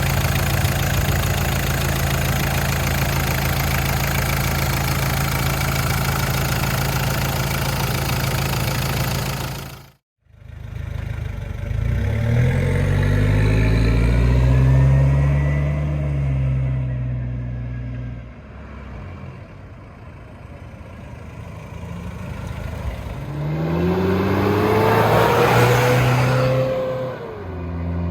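1992 Mitsubishi Pajero's 2.5-litre turbo-diesel engine running steadily for about ten seconds. After a sudden break, its engine speed rises and falls twice, then settles to a steady note near the end.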